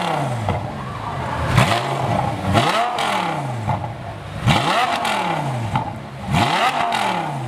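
A car engine being revved repeatedly while stationary: about four blips of the throttle, each climbing and then falling back toward idle, with a sharp crack at the start of each rev.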